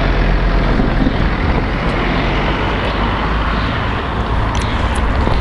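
Road traffic going by: a steady noise that dips slightly about four seconds in.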